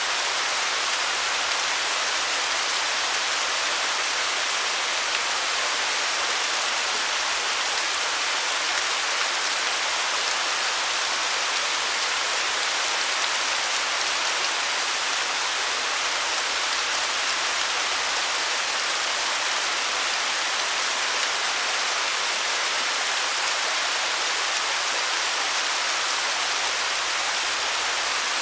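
Waterfall: a steady rush of falling water, an even hiss that sits mostly in the upper range with little low rumble.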